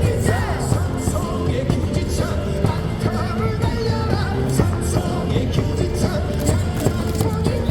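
A baseball player's cheer song playing over the stadium speakers, loud, with a steady beat and singing, as fans in the stands sing along.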